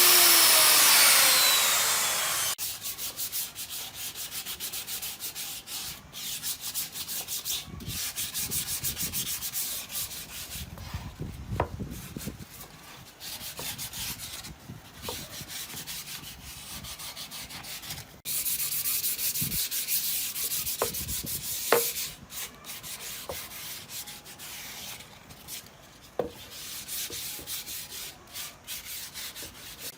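A power tool winds down over the first two seconds, falling in pitch. Then comes hand sanding: quick scratchy rubbing strokes with a few short pauses, louder for a few seconds past the middle.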